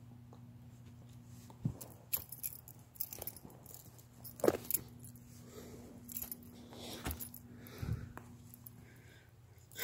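Faint footsteps on a woodland trail: irregular crunches and clicks, with some light jingling mixed in.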